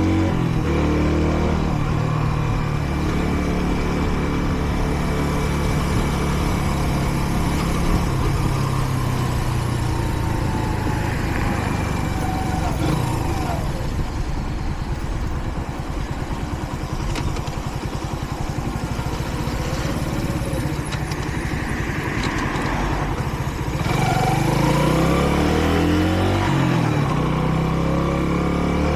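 Kreidler Dice CR 125's small single-cylinder engine running as the motorcycle is ridden, over wind and road noise. The engine note falls away about halfway through as the bike slows, stays low for a while, then climbs again near the end through a couple of gear changes. The engine is new and still being run in.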